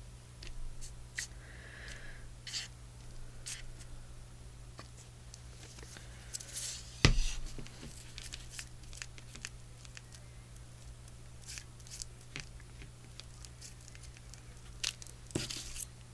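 Paper and craft materials handled on a work table: light rustling and scattered small clicks, with a sharp knock about seven seconds in and another near the end, over a faint steady hum.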